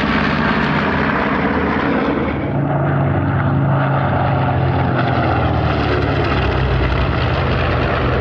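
North American B-25 Mitchell (PBJ) with its twin Wright R-2600 radial engines making a loud, steady drone as it passes low on an attack run. The engine note shifts slightly a few seconds in.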